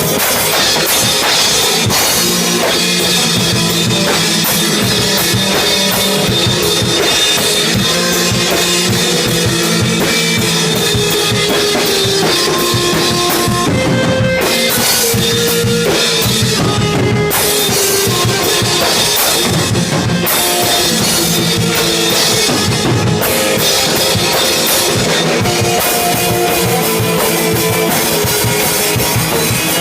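A band playing rock music: drum kit with bass drum and snare, together with sustained pitched instruments such as guitar.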